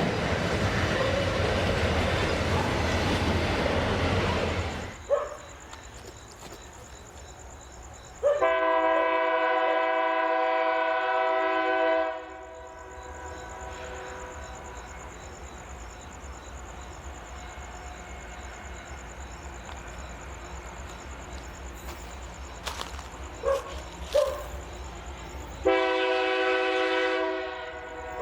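Diesel freight locomotive's air horn, a chord of several tones, sounding a long blast of about four seconds near the middle and a shorter blast near the end. Before it comes the loud rumble and rattle of a train passing, which stops abruptly about five seconds in.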